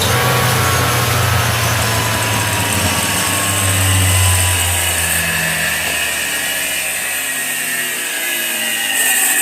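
12-volt alternator with a worn overrunning (freewheel) pulley spun up on a test bench with nothing connected: a steady mechanical whir with whining tones that slowly drop in pitch. The pulley is slipping, letting the rotor run on inside by inertia.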